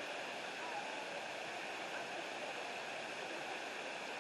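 Waterfall and creek water rushing steadily.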